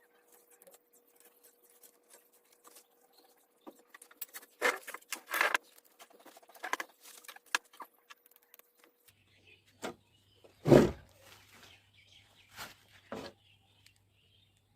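Scattered taps, clicks and knocks, with a louder thump about eleven seconds in. A faint steady low hum comes in about nine seconds in.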